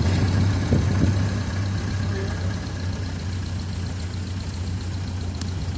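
Ford Model A truck's four-cylinder engine running with a steady low hum while the truck is being driven, easing off a little over the first couple of seconds, then holding steady.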